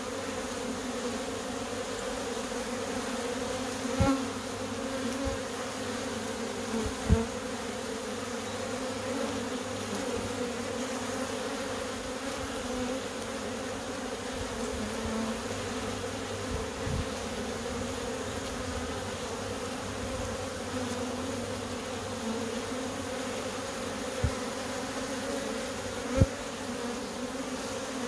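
Steady hum of many honey bees flying at a busy hive entrance, drones among them, a low buzz with a higher overtone. A few brief louder spikes stand out, the loudest near the end.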